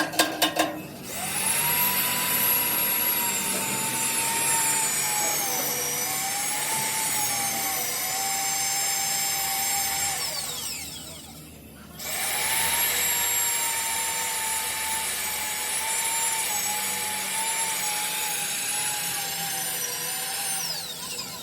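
Handheld electric power tool running in two long bursts with a steady high whine that sags a little in pitch now and then. Each burst falls away as the motor spins down, the first about ten seconds in and the second near the end. A quick run of clicks comes just before the first start.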